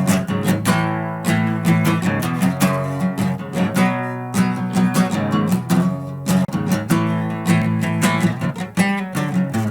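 Acoustic guitar strumming chords in an instrumental passage of a rock song, with no singing.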